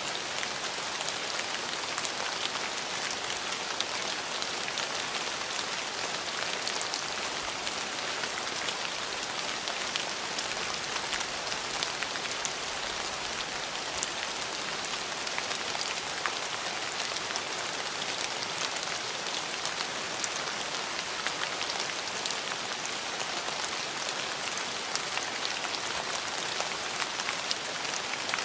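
Steady rain falling on hard surfaces, an even hiss with many small, distinct drop ticks throughout.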